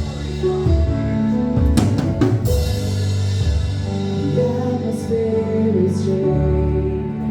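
Live worship band playing: held keyboard chords over a drum kit, with several cymbal crashes.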